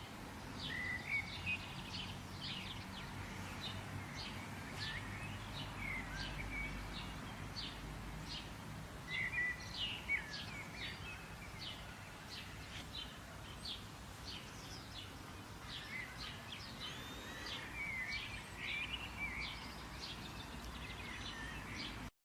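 Songbirds chirping and calling: many short, sharp notes and small trills, over a steady low background rumble.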